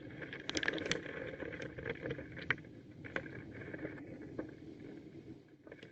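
Thunderstorm wind and rain, a steady rushing noise with scattered sharp taps, starting suddenly at the outset.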